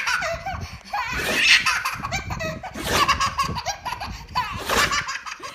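A baby laughing hard, belly laughs in repeated bursts.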